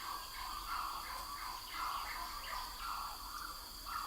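Bush ambience: a steady high-pitched insect drone with birds calling over it in short repeated chirps.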